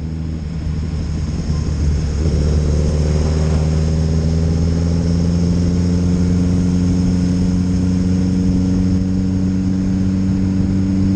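Motorcycle engine running on the move, its note rising slowly and evenly from about two seconds in as the bike gathers speed.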